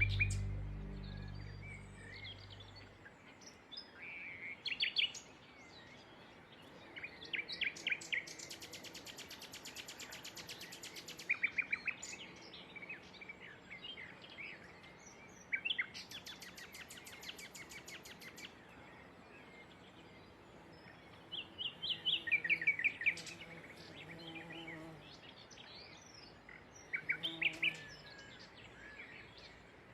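Soft background music fades out over the first few seconds, leaving several songbirds singing: short chirps and phrases, and twice a long, very fast, buzzy trill lasting about two seconds.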